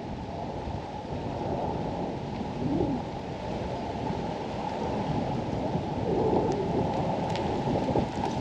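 Wind buffeting the microphone: a steady, uneven rumble with no speech, plus a few faint ticks near the end.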